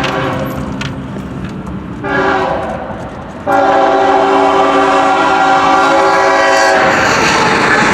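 CSX freight locomotive's multi-tone air horn sounding: a short blast about two seconds in, then a louder long blast held for about three seconds. Near the end the horn cuts off and the rolling noise of the passing train takes over.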